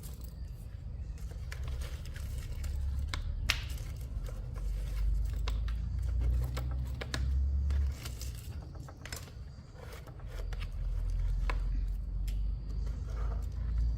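Scattered sharp clicks, taps and scrapes, like parts and tools being handled in a repair, over a steady low rumble.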